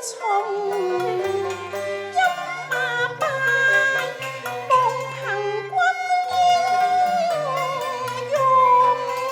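Cantonese opera accompaniment ensemble playing a melodic interlude: a sliding, wavering lead line over low held notes that change in steps.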